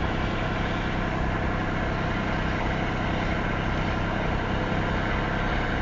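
Steady low hum of an idling engine, even throughout with no change in pitch.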